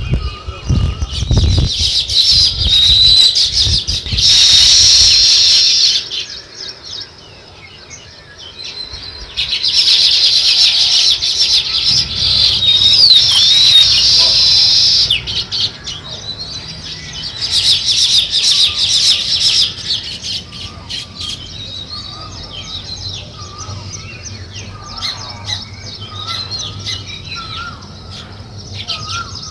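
A flock of small songbirds chirping densely, swelling into loud surges of overlapping chirps three times and thinning to scattered calls in between. A low rumble sounds in the first second or so.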